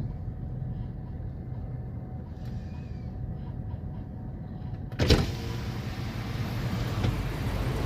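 Steady low rumble of a moving vehicle in city traffic. About five seconds in there is one sharp, loud knock, after which the traffic noise sounds brighter and fuller.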